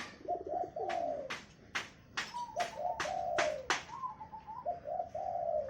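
Doves cooing repeatedly in low, rounded notes, one with a rolling trill just after the start: calls of zebra doves (perkutut) and spotted doves (derkuku). A run of sharp clicks, about two a second, comes through the middle.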